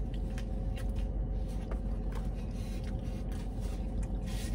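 Chewing a mouthful of cheesesteak sandwich, with small wet clicks from the mouth, over the steady low hum of a car cabin. A paper napkin rustles near the end.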